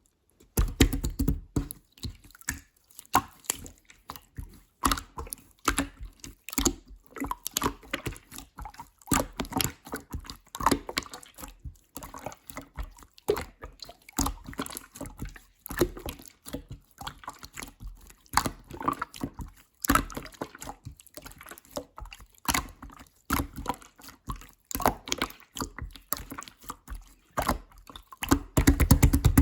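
Clear slime being squished and worked by hand, making wet, sticky clicks and pops at an irregular pace, several a second.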